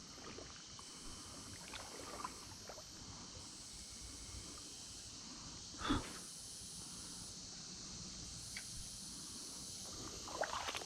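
Faint, steady running-water hiss of a creek, with small splashes and clicks, one brief louder sound about six seconds in, and livelier splashing near the end.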